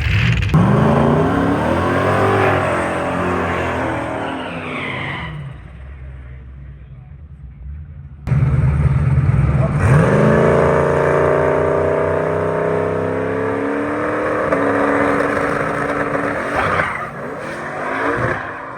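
Drag race cars launching and accelerating hard down the strip, engine pitch climbing through the gears and fading into the distance. Two separate passes: one fades out after about five seconds, then a second starts about eight seconds in, holds a high, steady pitch and fades near the end.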